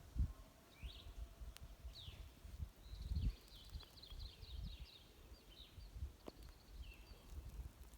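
Small songbirds calling: single short down-slurred chirps, then a rapid trilled song of about three seconds, then more chirps. Irregular low thumps sound underneath, the loudest about three seconds in.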